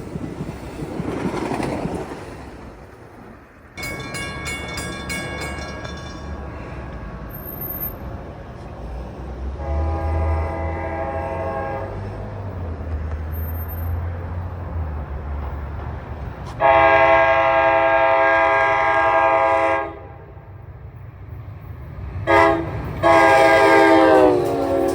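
NJ Transit locomotive's air horn sounding long, long, short, long, the grade-crossing signal, with the pitch of the last blast dropping as the train passes. A low rumble of the train runs under the first two blasts.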